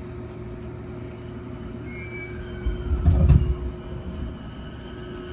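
JR Keihin-Tohoku Line electric commuter train heard from inside the car while running: a steady rumble with a motor hum, and a faint whine that joins about halfway. A heavy low rumble swells for about a second a little past halfway.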